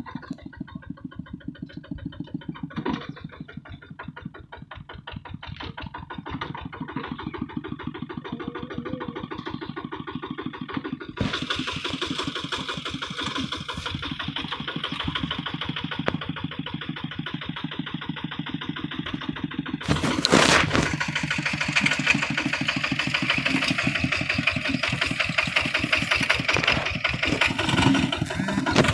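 Single-cylinder diesel engine of a Kubota hand tractor chugging steadily with an even firing beat. About eleven seconds in it grows louder and harsher. A short, loud burst comes at about twenty seconds, and the engine runs louder after it.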